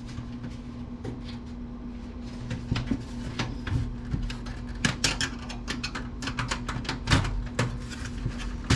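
Desktop computer case parts being handled and pried apart: a run of irregular plastic and metal clicks, taps and rattles, growing busier after about three seconds, as a cover panel is worked loose. A steady low hum runs underneath.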